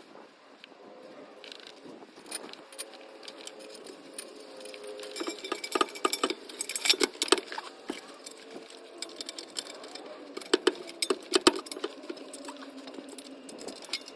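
Metal clinking and rattling of exhaust pipe hardware and tools being handled during an exhaust fit-up. There are irregular sharp clinks, thickest through the middle of the stretch.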